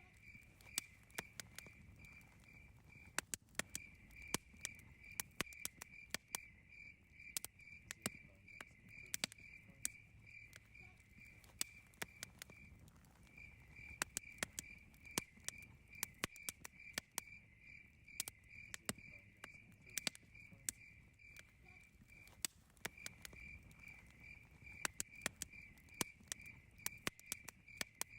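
Campfire crackling, with irregular sharp pops and snaps, over a steady pulsing cricket chirp that stops briefly a few times.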